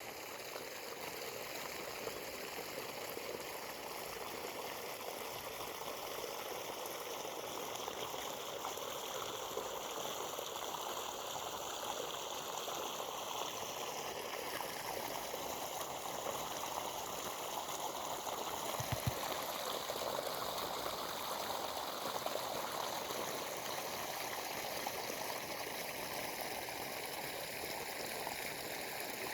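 Flowing water, like a stream, running steadily as a continuous rushing sound, with one brief low thump about two-thirds of the way in.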